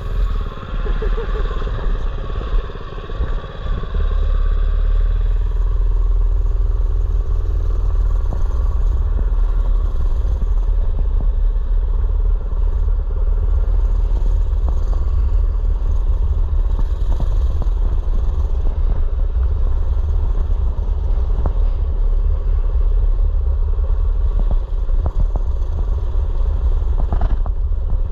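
Mini bike's small engine running steadily while being ridden, under a heavy low rumble on the microphone, with scattered clattering knocks as it goes over bumps.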